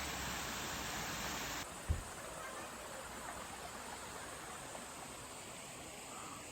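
Mountain stream water rushing steadily. About two seconds in, the rush drops suddenly to a quieter, thinner level, with a brief low thump just after.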